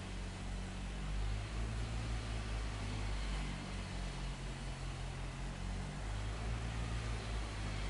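A steady low mechanical rumble under an even hiss, its low hum shifting in level every second or so.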